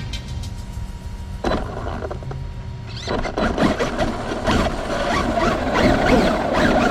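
Traxxas UDR radio-controlled truck running, its electric motor whining and rising and falling in pitch with the throttle, with tyre squeal; the whine grows busier about three seconds in.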